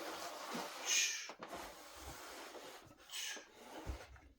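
Wooden table parts being handled: two short scraping rubs and a light knock, with a few soft thuds near the end.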